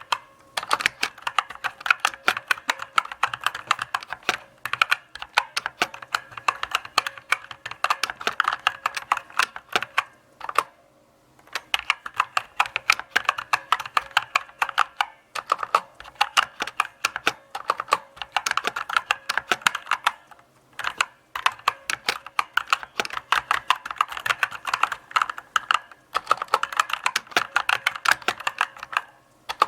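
Mechanical keyboard being typed on at a steady, unhurried pace: a continuous run of crisp key clicks and clacks, several per second, broken by a few short pauses.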